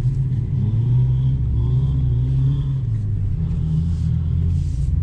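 A 2019 Jeep Wrangler JL's engine runs steadily while the Jeep drives slowly over off-road dirt trails. The sound is a steady, low-pitched drone.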